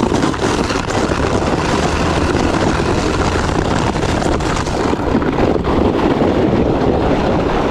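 Loud, steady rushing of wind buffeting the microphone as the sled slides fast over snow.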